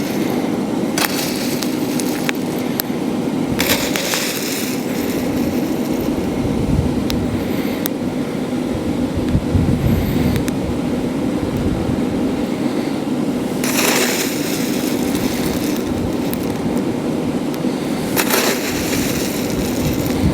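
Forge air blower running steadily under wind buffeting the microphone. Coke is scraped and shovelled onto the edges of the fire in several short scraping bursts.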